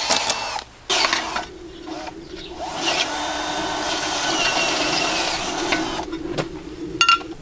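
A small electric motor runs steadily for several seconds with a wavering hum, then stops. A few sharp clicks follow near the end.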